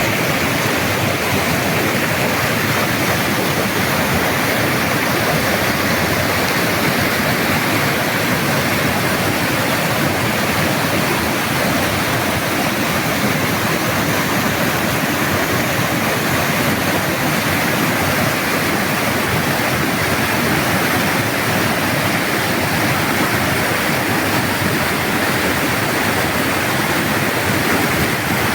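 Waterfall on a creek, water rushing steadily and loudly without a break.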